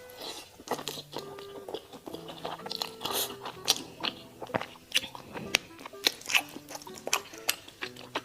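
Fried chicken crust being bitten and chewed close to the microphone: a run of sharp, crisp crunches that come unevenly, over soft background music.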